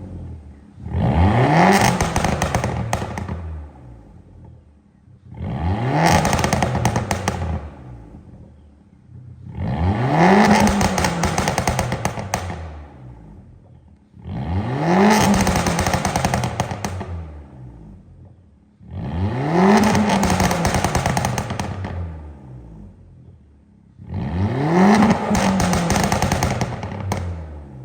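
Mk6 Volkswagen Golf engine revved six times through a free-flowing exhaust with the back box and resonator deleted. Each blip rises sharply in pitch, then drops back with rapid popping and crackling on the overrun from its pops-and-crackles map.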